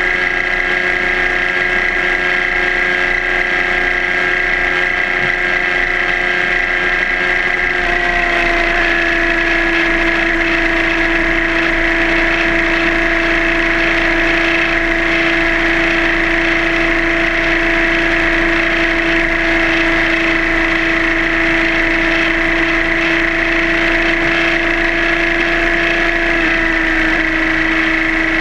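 Suzuki GSR600's inline-four engine running at a steady cruising speed on the road, a constant droning note with rushing noise. The pitch drops slightly about eight seconds in and again near the end.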